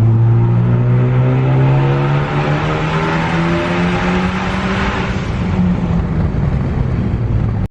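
Turbocharged Ford Focus ST four-cylinder engine under steady acceleration, its pitch rising slowly for about five seconds and then levelling off; the sound cuts off abruptly at the end.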